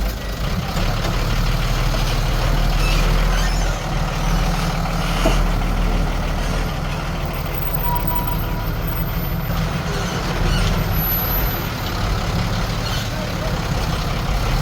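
Diesel engine of heavy earthmoving machinery running steadily with a low drone, its load rising and easing slightly.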